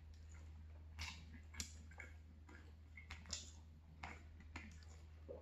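Faint wet chewing and mouth smacks of a person eating sauce-coated fried chicken, with scattered short clicks, over a steady low hum.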